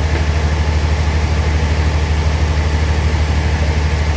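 Bandsaw sawmill machinery running with a steady, unchanging low engine drone.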